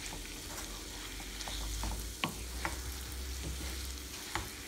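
Dried fish with onions, tomatoes and green chillies sizzling in hot oil in a frying pan, stirred with a wooden spatula. The spatula clicks and scrapes against the pan now and then.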